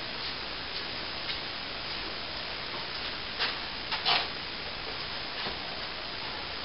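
Broken plasterboard debris being handled: a few scattered light knocks and scrapes over a steady hiss, the loudest a short double knock about four seconds in.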